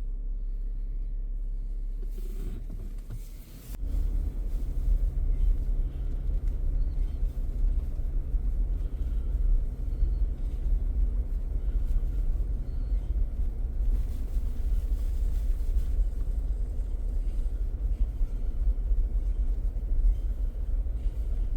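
A car driving on the road, a steady low engine and road rumble that grows louder about four seconds in and then holds steady.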